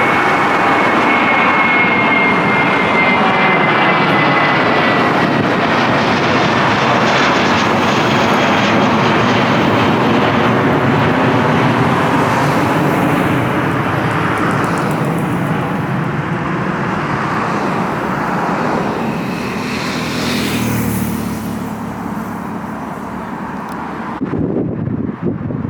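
Heavy jet airliner's engines climbing out low overhead after takeoff from Heathrow, a loud steady roar with a high whine that falls slowly in pitch; the roar fades away over the last ten seconds or so as the aircraft climbs away.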